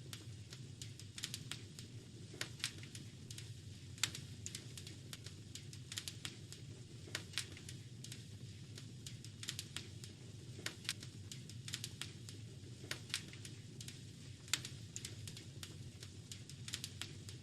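Wood fire in a fireplace crackling, with irregular sharp snaps and pops over a steady low rumble; a few pops stand out louder than the rest.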